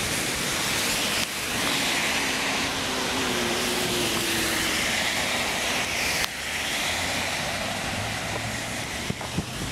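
Heavy torrential rain falling as a steady hiss, with cars driving past on the wet road; a low engine hum comes in past the middle, and a few handling clicks sound near the end.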